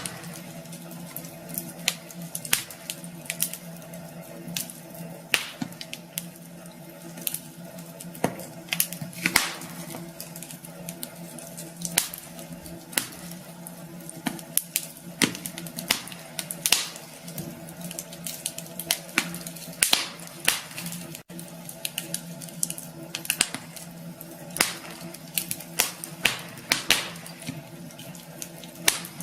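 Wood fire burning in a fireplace, crackling with irregular sharp pops and snaps over a steady low hiss and hum.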